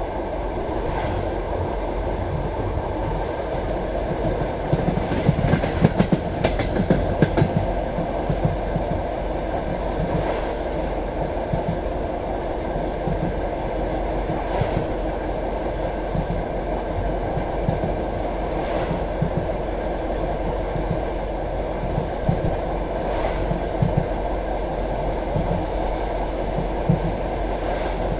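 Passenger train carriage rolling along the track: a steady rumble with a wheel clack every few seconds, and a busier stretch of clattering about five to eight seconds in.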